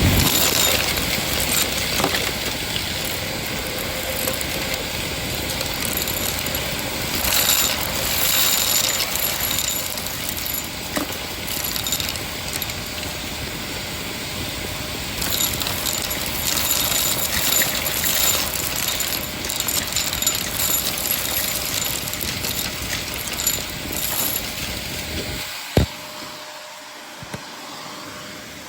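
Shark vacuum cleaner running steadily while sucking up crunchy debris, with scattered crackling and rattling of bits going up the hose. Near the end comes a single sharp click, after which the sound is quieter.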